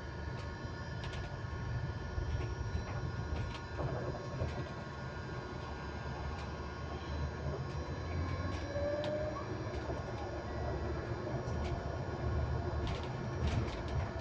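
Electric bus riding along, heard from inside: a low road rumble with scattered rattles and clicks, over several steady high tones that hold one constant pitch throughout.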